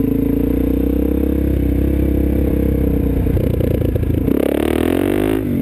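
Suzuki DR-Z400's single-cylinder four-stroke engine running steadily, then revving up with rising pitch a little over three seconds in and easing off near the end.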